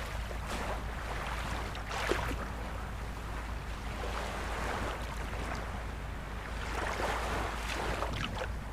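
Ocean waves washing ashore, the surf rising and falling in swells every two seconds or so over a steady low rumble.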